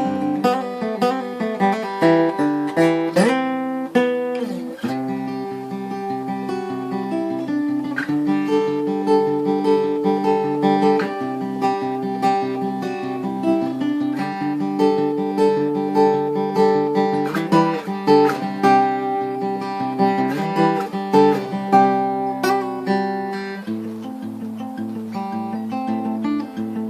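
Tanglewood acoustic guitar played fingerstyle, with picked bass notes under a melody of plucked higher notes.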